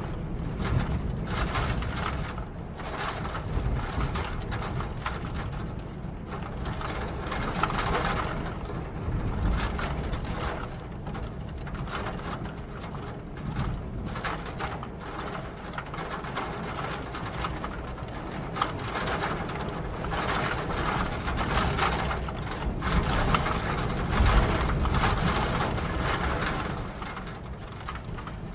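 Steady rain: a dense patter of drops over a low rumble, swelling and easing every few seconds.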